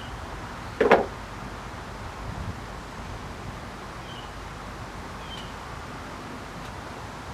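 One brief loud clatter about a second in, typical of a tool or part being handled during work on the outboard motor, over steady wind noise on the microphone.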